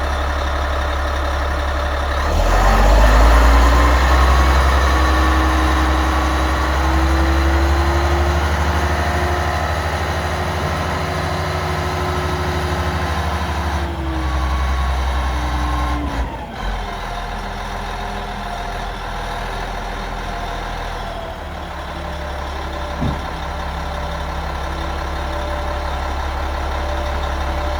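Komatsu HD325-6 haul truck's diesel engine idling, then revved up about two seconds in and held at raised speed for roughly twelve seconds before dropping back to a steady idle.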